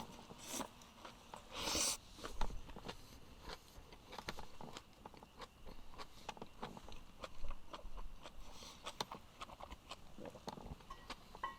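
Close-up eating sounds: someone biting and chewing food, with irregular small clicks and crunches and a short hiss about two seconds in.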